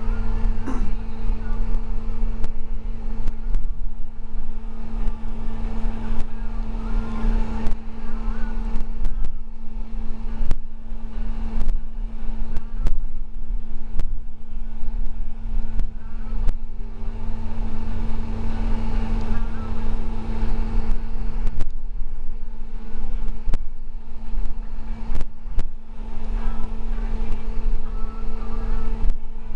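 School bus engine running and road rumble heard from inside the moving bus, a steady drone with a constant hum and scattered short rattles and knocks.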